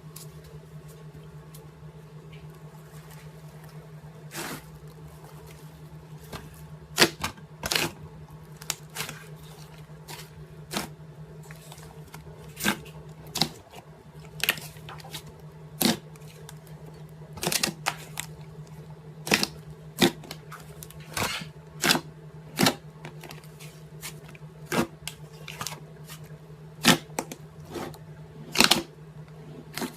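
Slime being squeezed and poked, giving off irregular sharp clicks and pops over a steady low hum.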